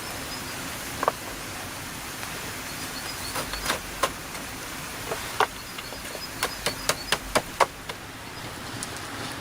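Hand tool striking wood: a few separate sharp knocks, then a quick run of about six strikes roughly a quarter second apart near the end, over a faint steady buzz of outdoor ambience.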